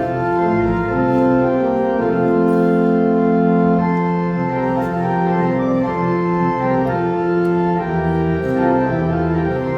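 Church organ playing slow, held chords over a low bass line, the chords changing every second or so.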